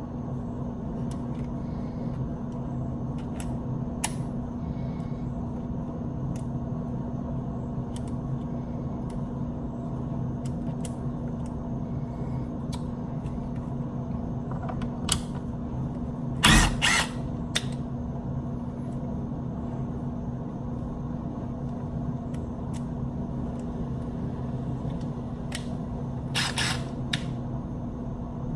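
A steady low electrical hum, with scattered light clicks and two louder clattering knocks of hard objects being handled, about two-thirds of the way in and again near the end.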